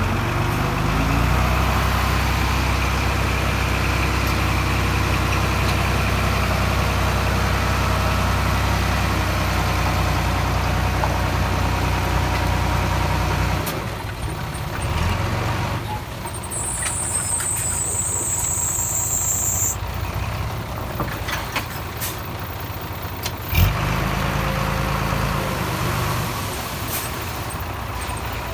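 Heavy diesel engine of earthmoving machinery running steadily, then falling away about 13 seconds in. A high hiss follows for a few seconds, then a sharp metallic knock, and the engine tone comes back briefly.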